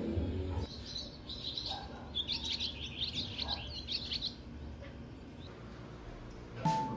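A small bird chirping: quick, high twittering calls for about three and a half seconds, then fading out.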